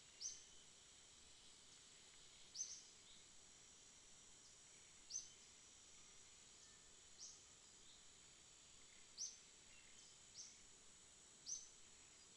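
Faint night ambience: a steady high-pitched insect drone, with a short, sharp, high chirp repeating about every two seconds, seven times.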